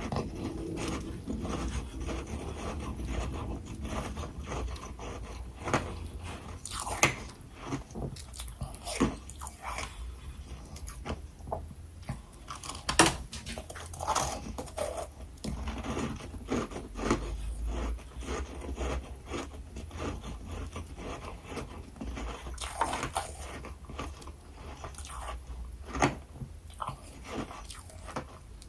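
A person biting and chewing freezer frost close to the microphone: uneven, crisp crunches with softer chewing in between, the loudest bite about halfway through.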